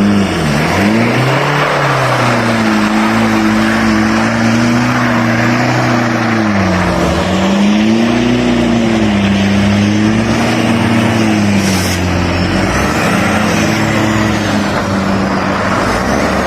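A vehicle engine revving up and down, its pitch rising and falling every couple of seconds, over a loud, steady rushing noise.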